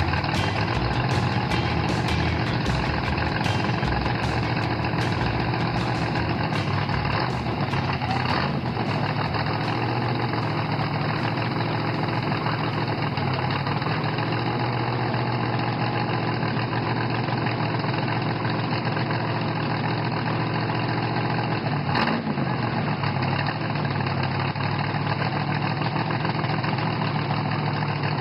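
A car engine idling steadily, with one sharp click about three-quarters of the way through.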